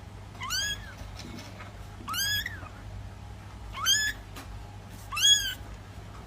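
A cat meowing four times, each call about half a second long and rising in pitch.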